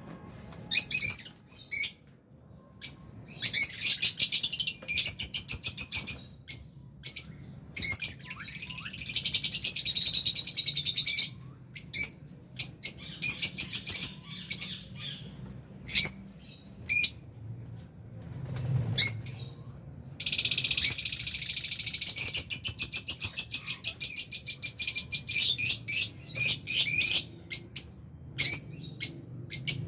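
A flock of lovebirds chirping and calling: short, shrill, high-pitched calls, some single and some in dense, overlapping runs lasting several seconds.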